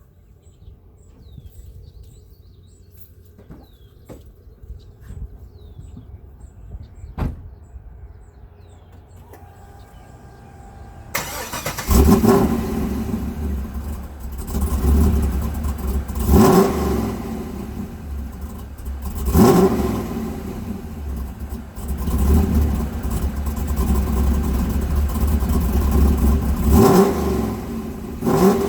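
The 1999 Pontiac Trans Am Firehawk's cammed LS1 V8, breathing through stainless long-tube headers and an SLP muffler, is started from cold about eleven seconds in. Before that there are only faint chirps and a couple of clicks. Once it catches it settles into a loud, rumbling fast idle and is blipped several times, each blip a quick rising rev.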